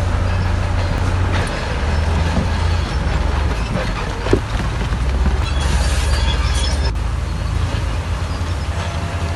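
Heavy diesel construction machinery working, with a steady low engine rumble and scattered metallic squeaks and clanks. There is a brief squeal a little past four seconds.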